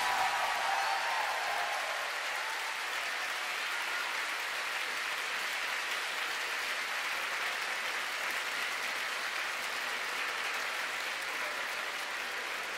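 A large concert audience applauding steadily after the song ends.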